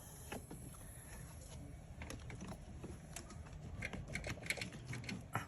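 A run of small, irregular clicks and taps from hand tools working on metal parts, growing busier about two seconds in.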